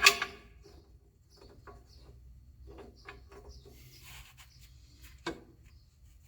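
A homemade motor mounting plate being handled against the lathe to line up its bolt holes: a loud knock at the start, then light scraping and small clicks, and another sharp knock about five seconds in.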